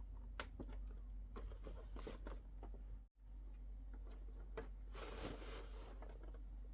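Close-up handling of a miniature toy cooking set and its packaging: light clicks and taps of small plastic pieces, with two stretches of rustling and tearing, the longer one about five seconds in. The sound cuts out completely for an instant just after the middle.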